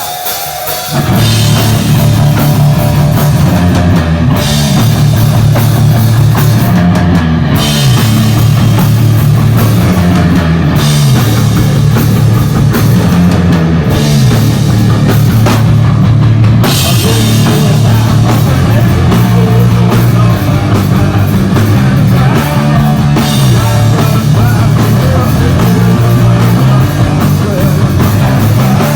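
Live doom metal band playing loud: a distorted guitar riff over bass and drum kit, kicking in about a second in.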